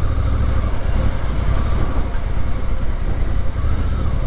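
Motorcycle riding along a road: a steady, loud low rumble of engine and road noise with no sharp events.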